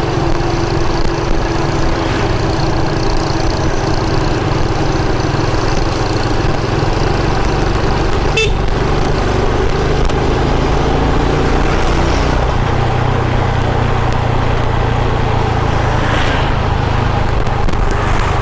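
Motorcycle engine running steadily while riding along a highway, with a constant low hum and road noise.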